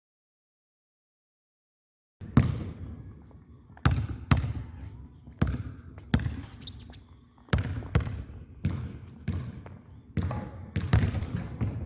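Basketball bouncing on a gym floor: sharp bounces, about one or two a second, each ringing briefly in the hall. They start about two seconds in, after complete silence.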